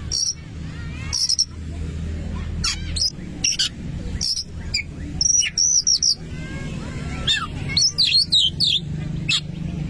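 Oriental magpie-robin (kacer) singing a run of short, sharp high notes and whistled phrases with rising and falling slurs, busiest in the second half. A steady low hum runs underneath.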